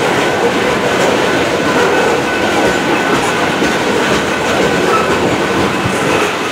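Coal hopper cars of a freight train rolling past at speed: a steady, loud rumble and rattle of steel wheels on the rails.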